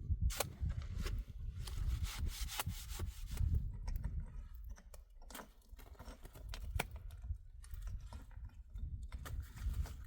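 Irregular rubbing and scraping with many sharp clicks, over a low rumble.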